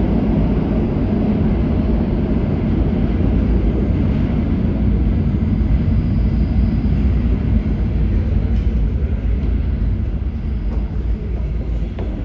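New York City subway L train running through an underground station, a steady heavy rumble of wheels and motors that eases a little near the end.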